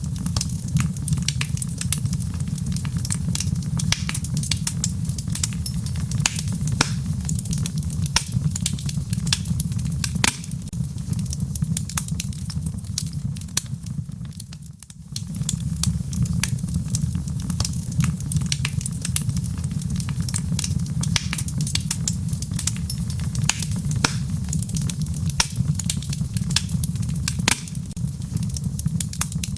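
Fireplace fire crackling: a steady low rumble of flames under frequent sharp pops and crackles, easing off briefly about halfway through.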